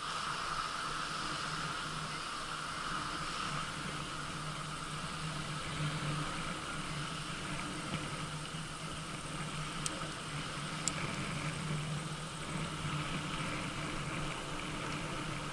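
Steady road noise of a bicycle ride along a highway: tyres on asphalt and rushing air with a constant low hum, and two faint brief clicks about ten and eleven seconds in.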